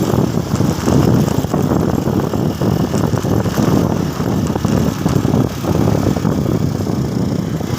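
Motorcycle on the move: engine and road and wind noise blend into a loud, rough, steady rumble.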